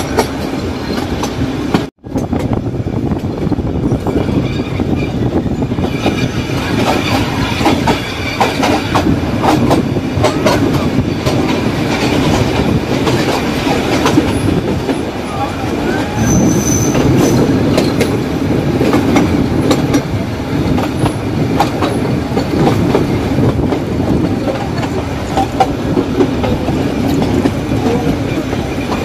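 Nilgiri Mountain Railway metre-gauge train running, with a steady rumble and the clatter of wheels over the rail joints. A short high tone sounds around the middle, and the sound cuts out for an instant about two seconds in.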